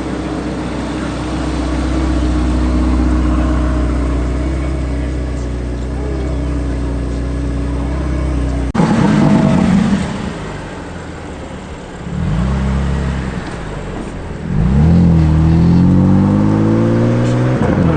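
A car engine runs steadily with a low drone. After a sudden break about nine seconds in, a car's engine is blipped twice and then revs up and accelerates away, its pitch climbing.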